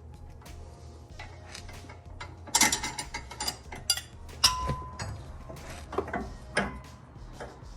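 Hand tools on a car's sway bar end link: ratchet wrench clicking and metal tools clanking, starting a couple of seconds in. The loudest is a sharp metal clank about four and a half seconds in that rings briefly.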